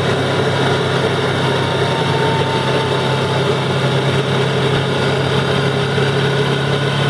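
ATV engine running at a steady, unchanging speed, with a constant low hum.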